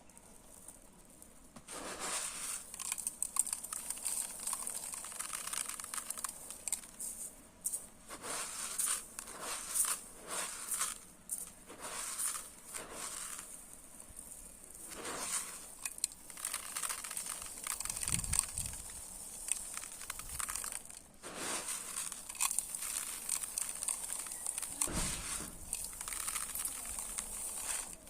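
Dry rice grains being scooped and poured: a grainy, hissing rustle of many small grains streaming and pattering, coming in waves with short pauses. It starts about two seconds in, and twice a dull low thud sounds under it.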